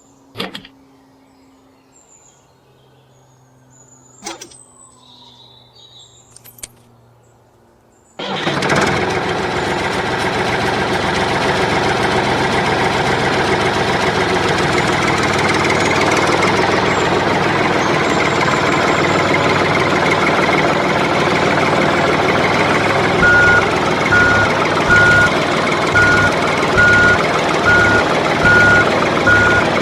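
A few faint clicks, then at about eight seconds a heavy vehicle engine starts running loudly and steadily. Later a reversing alarm joins it, beeping about one and a half times a second.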